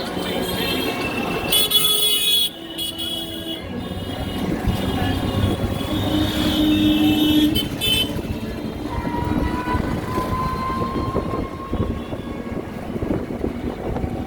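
Busy street traffic heard from a moving electric auto-rickshaw, with vehicle horns honking over the road noise, one horn held for over a second about halfway through.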